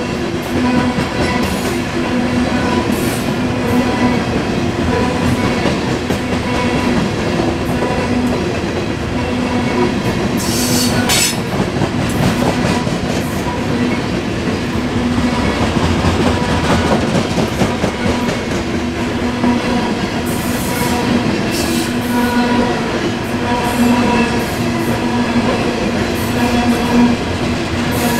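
Covered grain hopper cars of a freight train rolling past at speed: a steady loud rumble and clatter of steel wheels on rail, with a few brief high-pitched noises now and then.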